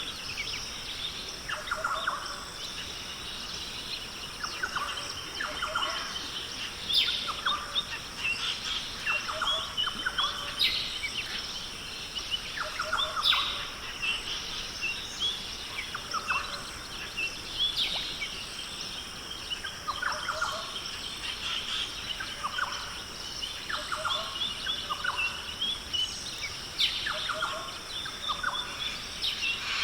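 Rainforest birds calling in overlapping short chirps, whistles and trills, a new call every second or two, over a steady high-pitched background drone.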